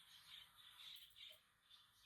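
Faint, soft budgerigar chirps: several short, quiet calls.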